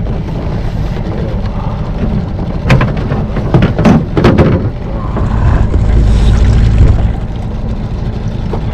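Wind rumbling on the microphone aboard a small boat, with a cluster of sharp knocks about three to four and a half seconds in and a louder low gust of rumble around six to seven seconds in.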